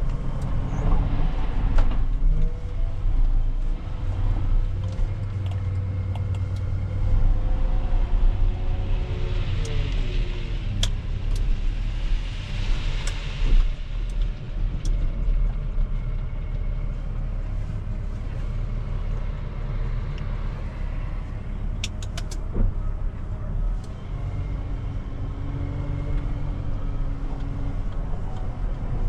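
Heavy diesel engine of an earthmoving machine working while loading gravel, its pitch rising and falling as it revs, with a hiss partway through and a few sharp knocks.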